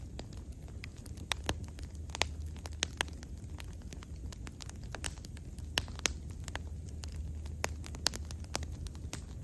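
Wood bonfire burning, with frequent sharp, irregular crackles and pops over a low steady rumble of the flames.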